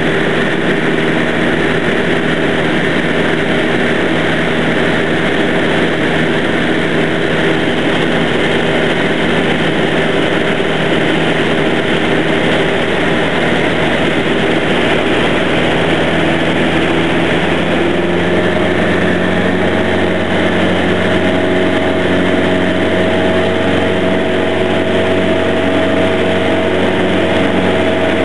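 A light aircraft's piston engine and propeller drone steadily in flight. About two-thirds of the way through, the engine note shifts slightly.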